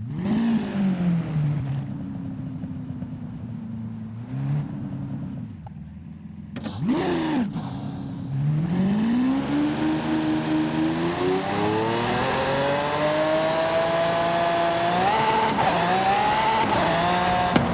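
Mercedes-AMG GT 4-Door Coupe engine: it settles from a rev to idle, gives a short blip, then a sharp rev that drops back. From about eight seconds in it pulls hard under acceleration, the pitch climbing steadily for several seconds, with quick dips near the end where gears change.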